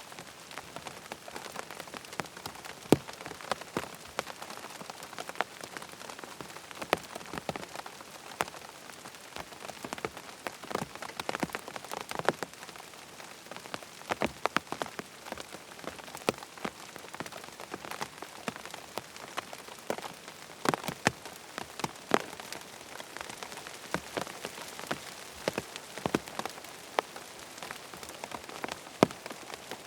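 Steady rain falling on a tent's fabric, a constant hiss with many separate heavier drops tapping sharply at irregular moments.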